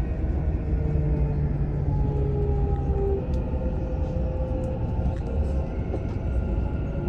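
Dubai Metro train running, heard from inside the carriage: a steady low rumble with faint whining tones that come and go.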